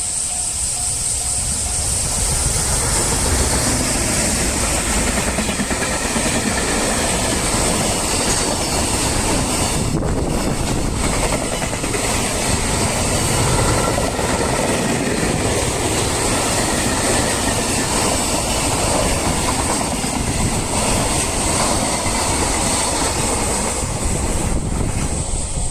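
A train running past on the main line: a steady rumble and rattle of wheels on rails that builds about two seconds in and holds for the rest of the pass.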